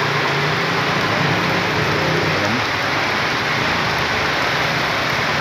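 Steady rain falling, an even hiss of drops hitting the ground.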